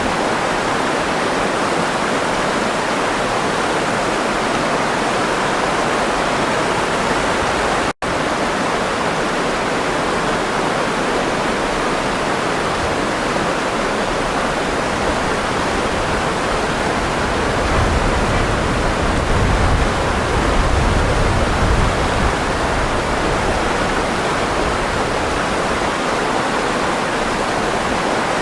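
Running water rushing steadily, an even hiss strongest in the middle range. It breaks off for a split second about eight seconds in, and a deeper rumble swells in the water between about eighteen and twenty-two seconds.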